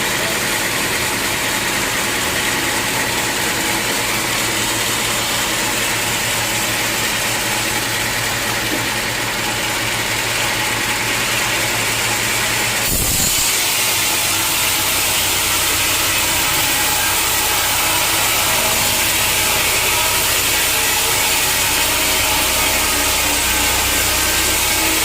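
Sawmill machinery running steadily, a loud continuous machine noise, with an abrupt change in the sound about halfway through.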